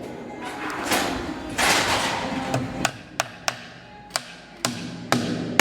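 Hammer knocking on wood, about six sharp blows roughly half a second apart in the second half, after a stretch of rushing noise, over faint background music.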